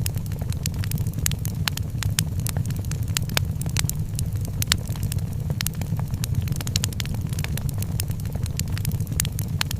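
Wood fire in a fireplace crackling: many sharp, irregular pops and snaps over a steady low rumble of the burning fire.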